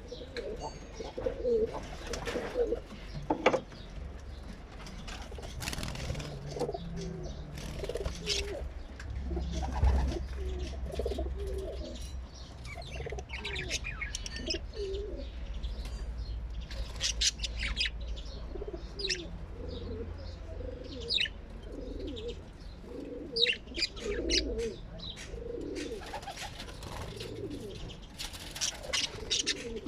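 Birds calling: low cooing notes repeated all through, with runs of sharp, high chirps in the middle and near the end.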